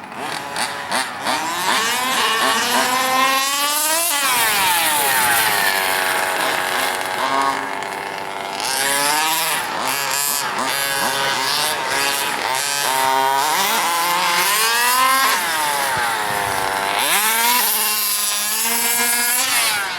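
Small two-stroke engines of radio-controlled cars revving hard and making fast passes. The engine note climbs as they speed up and falls sharply as each goes by, about four seconds in, near eight seconds and again near seventeen seconds.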